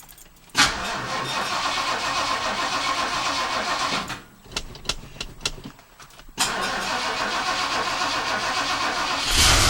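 Cold start of a 1974 Ford Galaxie 500's 400 cubic-inch V8 after sitting over winter. The engine turns over for about three and a half seconds and stops. After a short pause with a few clicks, it turns over again and keeps running, getting louder near the end.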